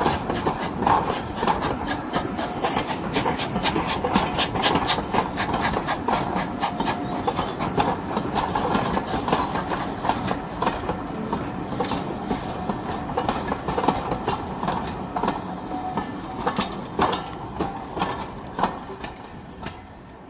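Railway passenger coaches rolling past, their wheels clattering and clicking irregularly over the track, the sound fading in the last few seconds as the end of the train moves away.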